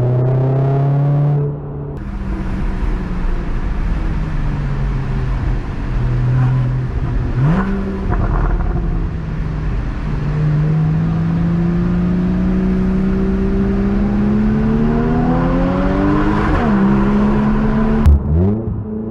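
Lotus Elise 220's four-cylinder engine under way on the road: it revs up through a long pull, drops in pitch at gear changes with a quick rev blip partway through, over road and wind noise from the open cockpit.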